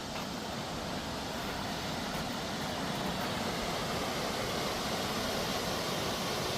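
Steady rush of flowing water from Tumalo Creek, growing slightly louder.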